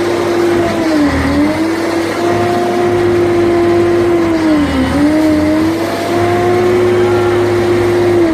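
Scania 113 truck's engine running steadily. Its note dips briefly and recovers twice, about a second in and again near five seconds.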